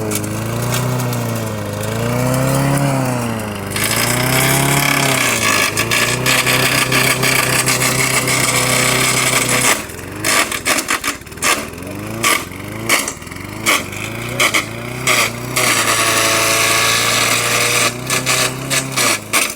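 Lawn mower engine revving up and down, then running at steady high speed. About ten seconds in it turns rough, stuttering and knocking in uneven surges, a sign of the abused engine failing, and it cuts out right at the end.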